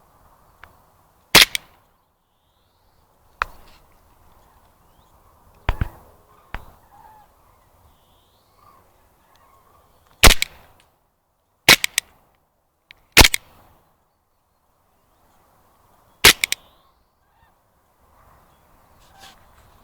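Airsoft M9 pistol firing single shots, each a sharp crack, about eight in all at irregular gaps of one to four seconds.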